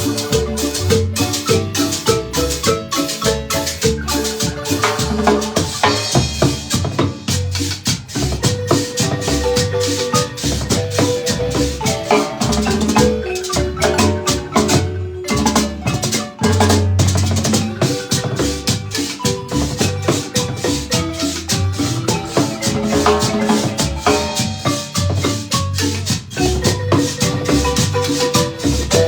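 Marimba ensemble playing a lively piece, with rapid mallet runs over a steady bass line and shaken percussion.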